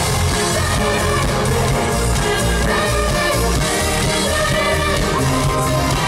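Live pop music played loudly by a band through a festival PA, with a steady beat and a sung vocal line over it.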